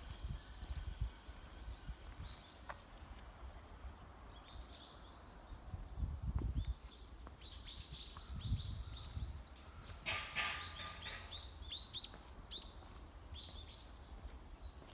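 Small birds chirping in series of short, high, downward-sliding notes, thickest in the second half. A couple of low rumbles sound under them about halfway through.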